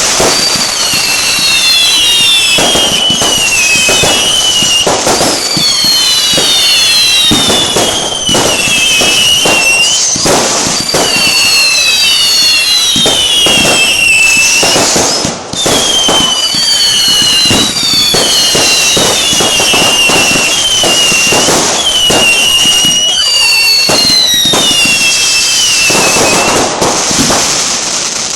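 A fireworks display going off: a dense run of bangs and crackle, with groups of several overlapping falling whistles that recur every two to three seconds.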